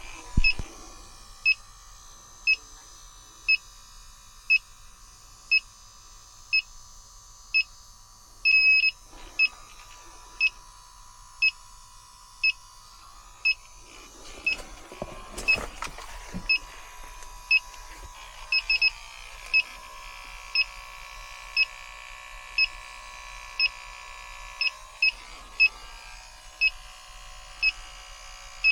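Electronic refrigerant leak detector beeping about once a second, with a short run of rapid beeps about nine seconds in and a few quick double beeps later; the faster beeping is the detector picking up leaking refrigerant. A brief knock or handling noise comes in the middle.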